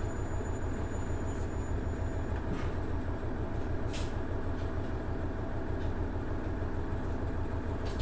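Inside a KiHa 110 series diesel railcar, its Cummins DMF14HZA engine and wheels on the rails making a steady low rumble, with a few faint clicks.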